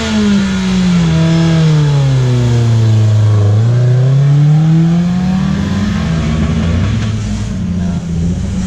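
Car engine revved through a loud modified exhaust. The note is held high, eases slowly down over about three seconds, climbs back up, and then stays high.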